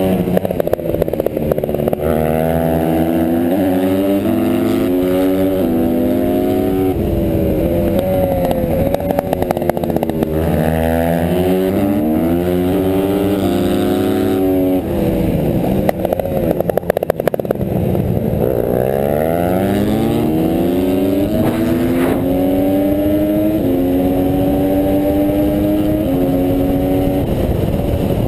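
Honda CRF150R pit bike's single-cylinder four-stroke engine racing: it revs up, shifts with a drop in pitch, and climbs again several times, then backs off briefly with a rougher, crackling run near the middle before pulling hard once more.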